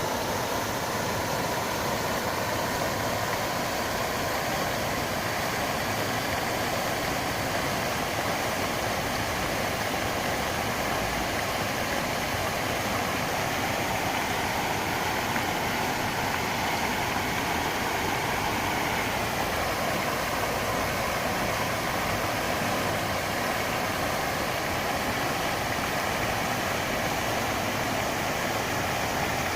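Steady rushing of a fountain's falling water, an even unbroken roar.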